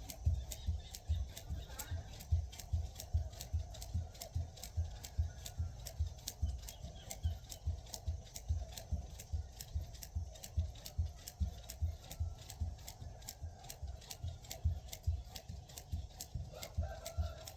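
Jump rope skipping: the rope ticking against the ground and the feet thudding on landing, in a steady rhythm of about two and a half a second.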